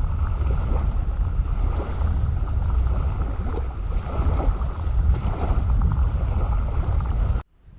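Heavy wind buffeting the microphone over water slapping and splashing against a kayak, with splashes recurring about once a second; it cuts off abruptly near the end.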